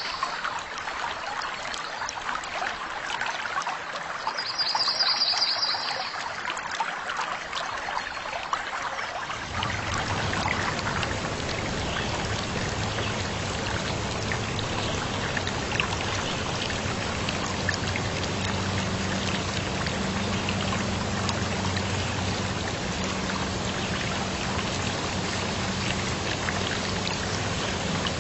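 Water trickling, with a short high bird call about five seconds in. About a third of the way through the sound changes abruptly to a fuller, steady rush of running water or rain, with a faint low hum under it.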